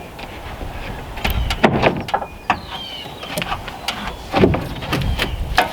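Irregular knocks, clunks and scrapes of a sheathing board being handled and set into place, with wind buffeting the microphone.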